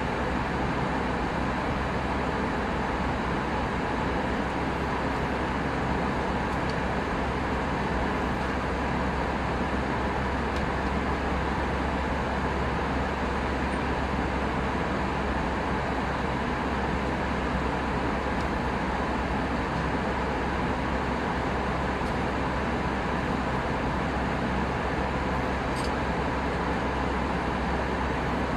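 Steady cabin noise of an Airbus A319 airliner in flight: an even rush of airflow over a deep, constant engine rumble, heard from a front-row window seat.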